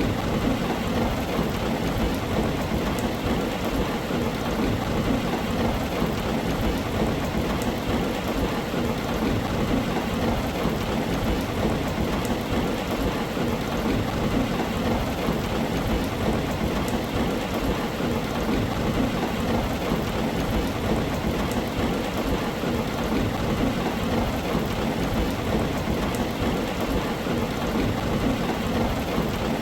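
Heavy, steady rain on a tin roof, even and unbroken, with a constant low rumble underneath.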